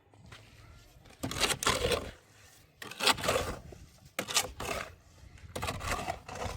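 Four rough scraping strokes, each lasting about half a second to a second, with short pauses between them.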